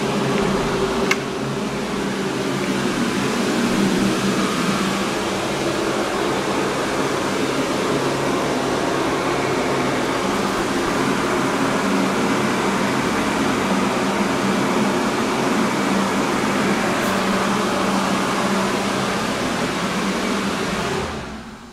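Steady whir of an electric fan or blower motor with a rush of moving air, cutting off suddenly near the end.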